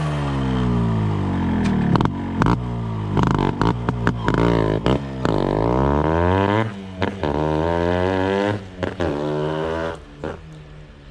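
Yamaha RX-Z's two-stroke single-cylinder engine, breathing through an open exhaust, being revved up and let fall again several times with sharp cracks between blips. About ten seconds in the sound drops away sharply.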